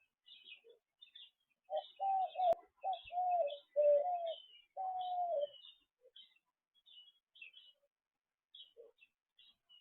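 Wild birds at a feeder: scattered high chirps throughout, and from about two seconds in a louder run of about six low, slightly falling calls that stops about halfway through.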